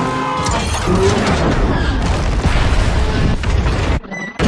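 Action-film car-chase sound mix: heavy low booms and car noise over score music, dropping out abruptly for a moment near the end.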